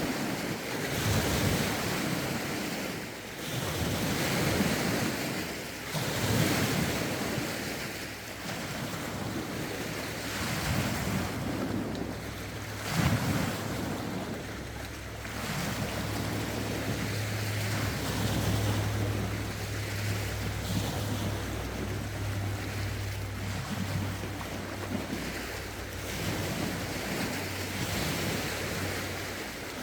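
Lake waves washing against the shore in surges every couple of seconds, with gusty wind buffeting the microphones. A low steady hum joins about halfway through.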